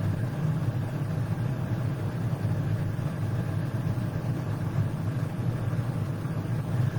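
Steady low rumble of a running vehicle, with no change in pitch or level.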